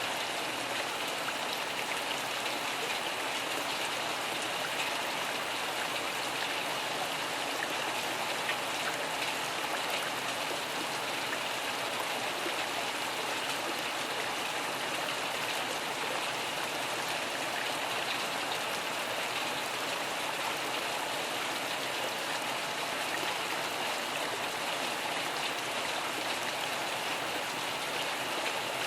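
Steady rain falling, an even hiss with scattered drops ticking, and no thunder.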